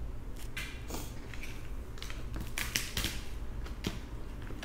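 Crab legs being handled and their shells cracked: a run of irregular sharp clicks and crackles, the loudest a little before three seconds in.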